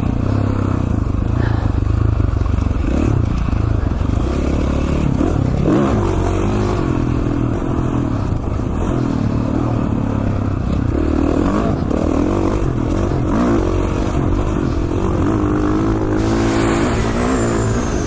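Single-cylinder four-stroke engine of a 2017 KTM 450 XCF dirt bike running under way on a trail, its pitch rising and falling with the throttle. Near the end a thin high tone glides down in pitch.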